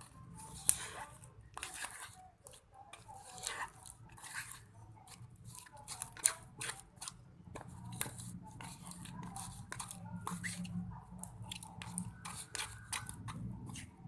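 Homemade slime being kneaded and squeezed by hand, with irregular sticky clicks, pops and crackles.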